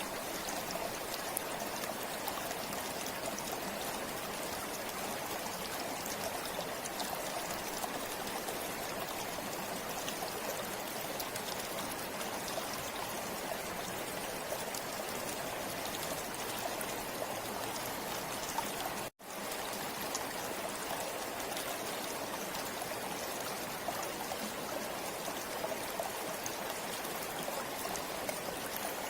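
River water flowing steadily over rocks, a continuous rushing and trickling. The sound cuts out for an instant about two-thirds of the way through and fades straight back in.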